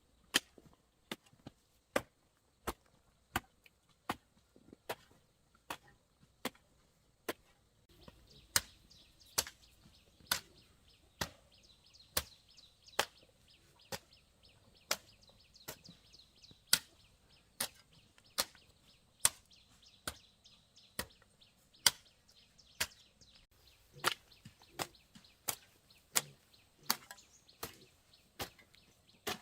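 Wood being chopped with a blade in a steady rhythm of sharp strokes, a little more than one a second. A faint hiss joins in about eight seconds in.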